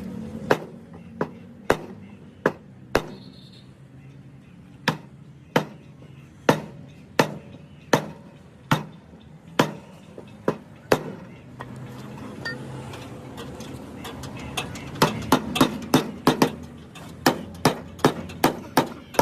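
Hammer blows on metal, struck one at a time about every two-thirds of a second, with a pause in the middle and a quicker run of blows in the last few seconds.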